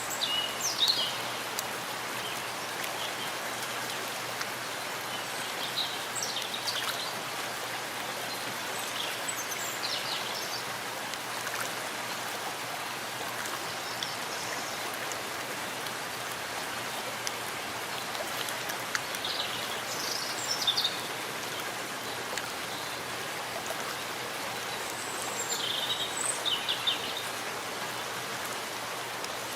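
Steady rain falling in a forest, an even hiss, with birds chirping briefly now and then above it.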